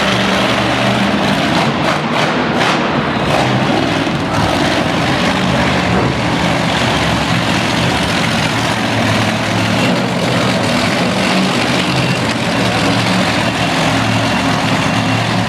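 Monster truck engines running loud and steady in an arena, their pitch shifting a little now and then.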